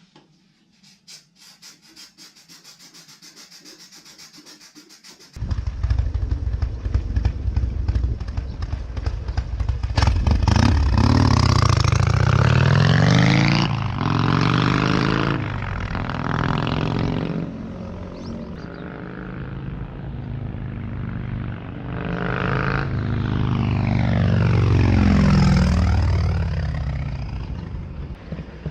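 Harley-Davidson Sportster V-twin with dual exhaust, riding and revving up and rolling off several times, starting suddenly about five seconds in after a quieter stretch of light clicking. The rear drive belt has been treated with silicone spray to stop a cicada-like squeal under engine braking.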